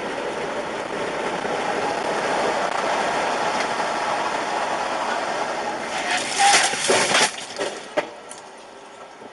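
Steady road and engine noise from a moving car, then about six seconds in a car collision: a loud crunch of several impacts over about a second and a half, followed by a single sharp knock.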